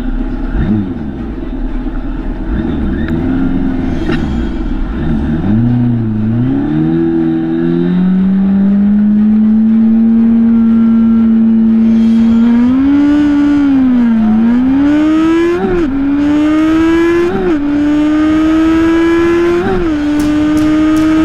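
Drag-racing motorcycle engine revved in short blips while staging, then held at steady revs before the launch. It then accelerates hard down the strip, with the pitch climbing and dropping sharply at each upshift, three times in the last six seconds.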